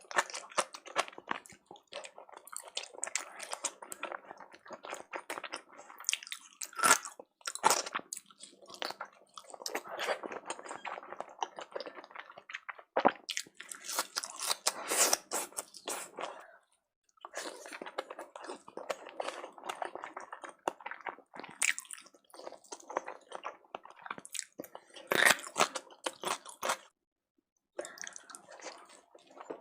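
Close-miked chewing of salmon sushi and sushi rolls: wet, sticky chewing with quick mouth clicks and smacks, pausing briefly twice.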